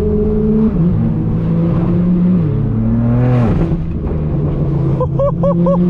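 Straight-piped BMW M4 F82's twin-turbo inline-six running under way, a steady exhaust note that changes pitch in steps a few times.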